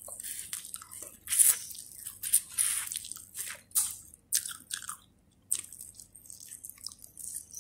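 Crunchy food being bitten and chewed: a series of irregular crackling crunches with short pauses between them.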